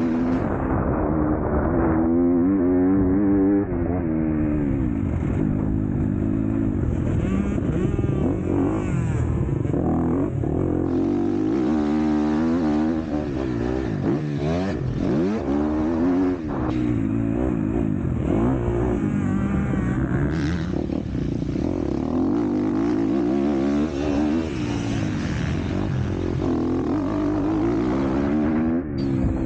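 MX2 motocross bike engine racing, its revs climbing and dropping over and over as it accelerates, shifts and backs off.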